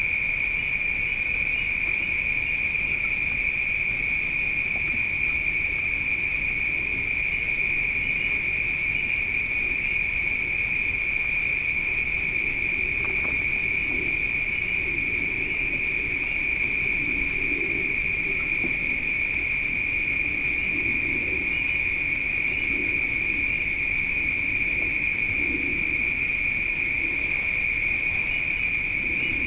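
Night insects chirring in a steady, unbroken high-pitched chorus that holds one level throughout.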